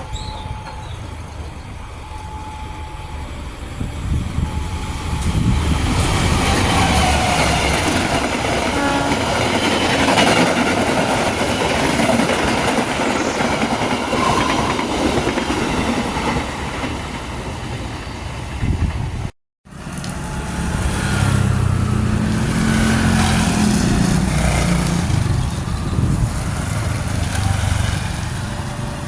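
Long-distance passenger train passing at speed, the wheels clattering over the rails and the noise swelling as it goes by. About two-thirds of the way through, a sudden cut leads straight into another train passing.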